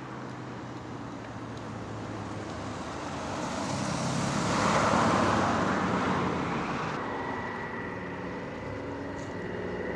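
An aircraft passing overhead: a rushing engine noise that swells to its loudest about five seconds in, then fades away.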